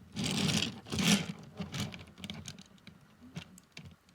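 Handling noise from small die-cast model trucks being moved around by hand: two short rustles in the first second and a half, then scattered light clicks and taps.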